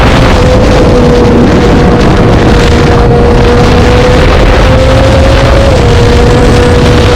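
Triumph Street Triple RS's 765 cc inline three-cylinder engine, through a Spark aftermarket exhaust, running loud at steady revs; the note creeps up slightly and drops back a little near the end.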